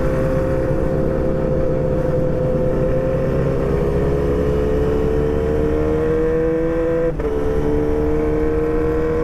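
Sport motorcycle engine heard from the saddle while riding, its pitch climbing slowly as it accelerates, with a brief drop about seven seconds in like a gear change before it pulls on again. A rough rumble of wind and road lies underneath.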